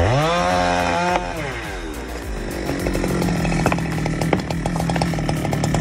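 Chainsaw revving sharply up, held at high revs for about a second, then dropping back to idle. From about three seconds in, a fast run of sharp cracks and clicks over the idling saw.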